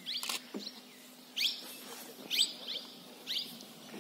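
Birds calling in the forest: short, high chirps that slide downward in pitch, repeated about once a second. There is a sharp click about a quarter-second in.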